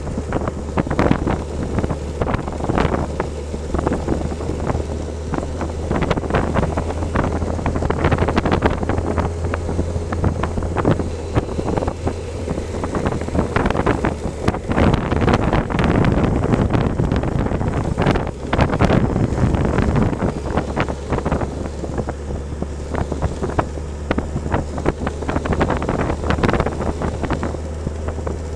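Wind buffeting the microphone while riding, over a steady low drone; the drone fades for several seconds midway and then returns.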